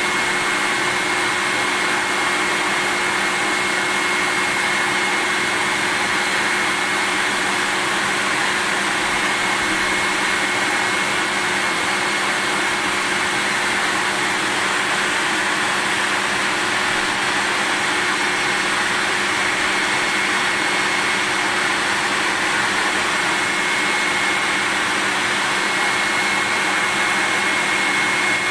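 Vacuum cleaner running steadily: an even rushing noise with a thin high whine held on one note, unchanging throughout.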